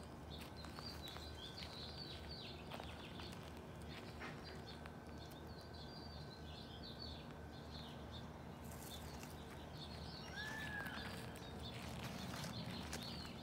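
Outdoor ambience of small birds chirping, with quick, scattered high calls over a faint steady low hum. About ten seconds in, one short arching call stands out.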